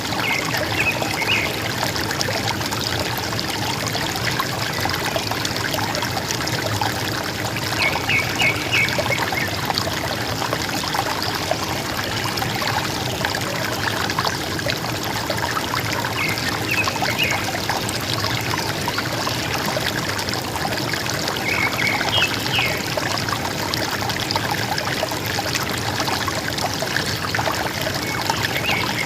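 River water running steadily with a gentle gurgle. A forest bird gives a short burst of high chirps about every seven seconds.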